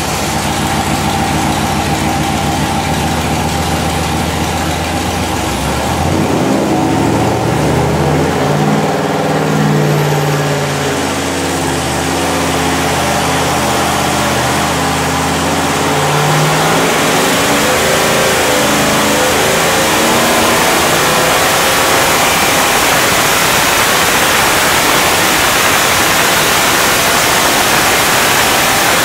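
LS-based 427 cubic-inch stroker V8 with variable valve timing, running on an engine dyno. It runs steadily at low revs, changes pitch about six seconds in, and holds a higher steady speed. From about sixteen seconds in it runs at high revs, louder and rougher.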